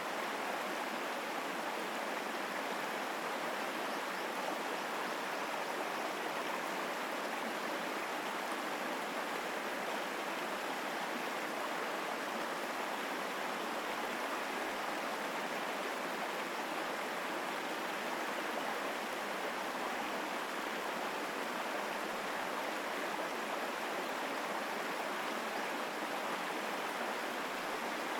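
Mountain stream flowing strongly: a steady, even rush of water with no breaks.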